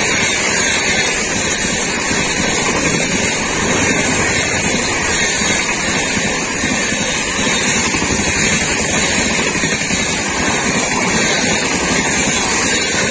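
Passenger coaches of an express train passing close by at about 130 km/h: a loud, steady rush of wheel and air noise.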